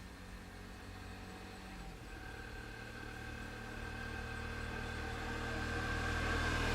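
A motor vehicle's engine running and growing steadily louder as it approaches.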